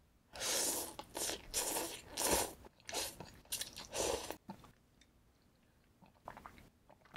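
Close-miked biting and chewing of crunchy food: a quick run of loud crunches for about four seconds, then a few fainter chews.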